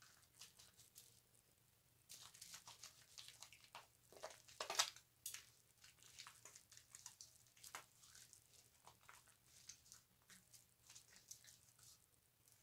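Faint scratchy crackling of a loofah rubbing a bar of soap and working up lather, in irregular short rasps, with one louder scrape a little under five seconds in.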